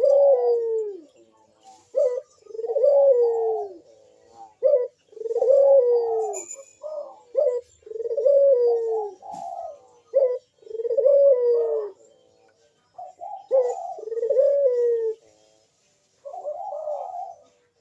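A burung puter (domestic turtle dove) coos over and over, about seven phrases roughly every two and a half to three seconds. Each phrase is a short note followed by a longer coo that falls in pitch. This is the bird's persistent song, used as a lure call to draw other doves to answer.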